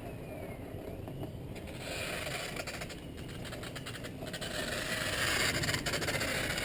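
Wind rushing over the microphone, louder from about two seconds in, with rubbing and scraping noise and a cluster of small clicks in the middle.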